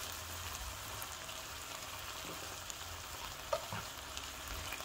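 Ground chicken frying with a gentle, steady sizzle in an electric skillet, with a few soft scrapes and ticks of a slotted spatula stirring it.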